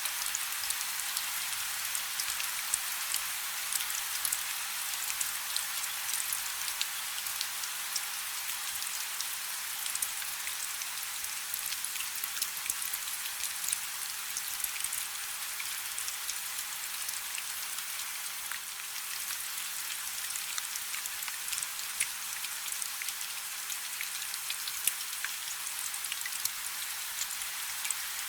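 Steady light rain: a dense hiss of fine drops with many small, scattered individual drop patters on top.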